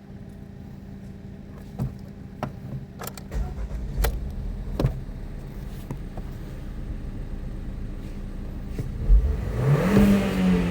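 Ford Mondeo IV's 1.6 Ti four-cylinder petrol engine (code JTBA) running under test, with a few sharp clicks in the first seconds. About nine seconds in it is revved once, the pitch rising and then falling back.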